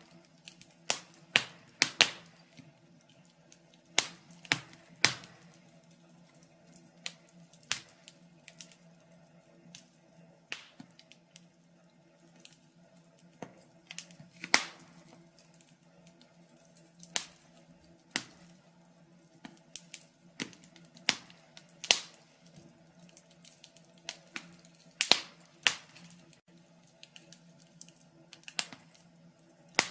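Log fire crackling: irregular sharp pops and snaps from burning wood, one or two a second and uneven in strength, over a faint steady low hum.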